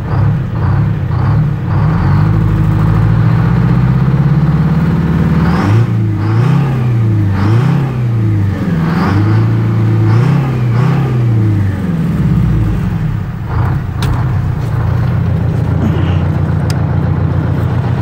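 Detroit Diesel 8V71 two-stroke V8 diesel running just after start-up. Its speed creeps up slowly, then it is revved up and down about four times and settles back to a steady idle, running healthy.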